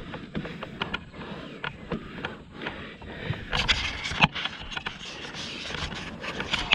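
Dirt bike coming down a rough trail: irregular knocks, rattles and scrapes over a constant rough noise.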